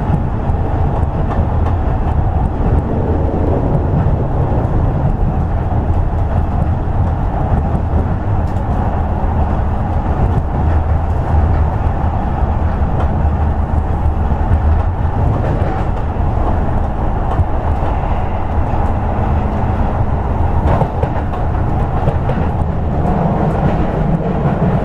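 Toei 10-300 series electric train running between stations: a steady rumble of wheels on rail with train running noise.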